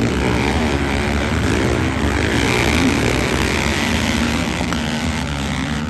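Motocross bikes' engines revving up and down as they race, several engine pitches overlapping.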